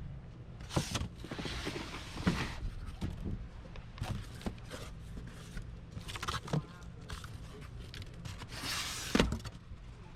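Parts being handled and rummaged through in boxes: scattered knocks and clatter, with two longer rustling scuffs, one about a second in and one near the end, over a low steady hum.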